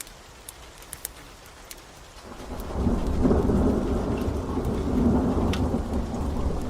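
Steady rain with scattered sharp crackles of a wood fire. About two seconds in, a low rumble of thunder swells up, peaks and slowly rolls on, the loudest sound.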